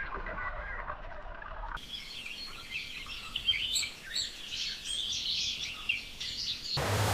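Small birds chirping: many short, high chirps overlapping, after a softer stretch of lower calls. The sound changes abruptly about two seconds in and again near the end, where a louder, even rush takes over.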